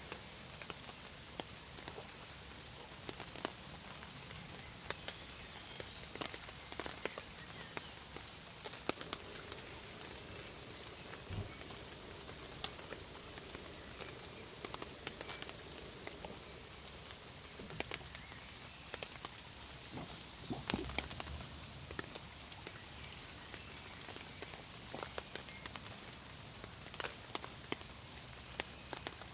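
Rain falling, a steady hiss with many scattered drops tapping close by, and a faint, high, repeated chirp in the background through the first half.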